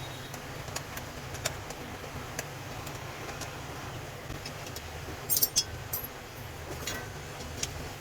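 Scattered light metallic clicks and clinks, with a quick cluster of them about five and a half seconds in, over a steady low hum.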